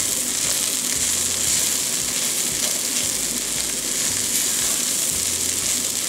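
Corn kernels, jalapeño strips and epazote frying in lard with a steady sizzle, stirred with a wooden spoon in a clay pot.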